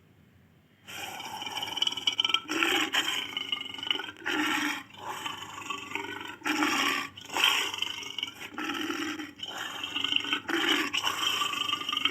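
Lion roaring, given as a Barbary lion: after about a second of quiet, a run of loud roars and grunting calls follows one another with short breaks between them.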